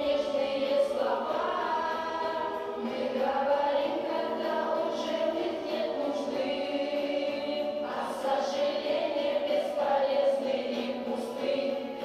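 A choir singing a slow piece, with several voices holding long notes together.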